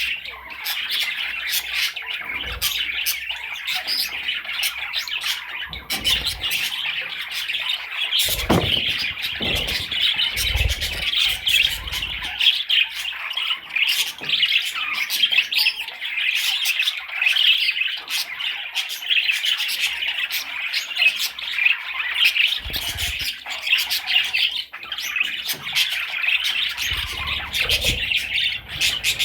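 Budgerigar chattering and warbling without a break, a dense run of rapid chirps, squawks and clicks, with a few short low thumps scattered through it.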